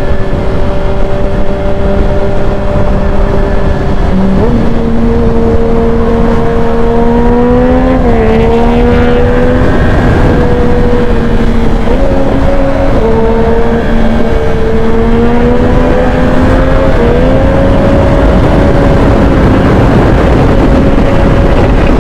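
Motorcycle engine running at cruising speed under heavy wind rush on a helmet-mounted microphone. The engine note holds steady, steps up about four seconds in, then dips and shifts several more times.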